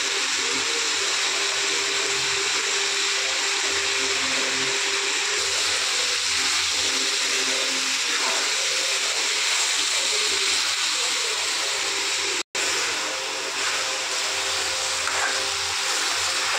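Diced potatoes, peas and onion sizzling steadily in hot oil in a kadhai. The sizzle cuts out for a moment about twelve seconds in.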